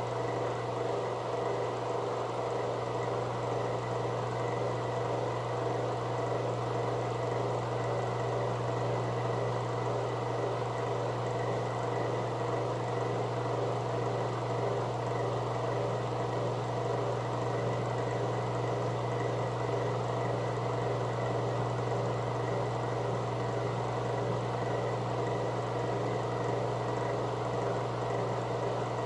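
Microwave oven running mid-cycle with a steady low hum, heating pieces of bar soap.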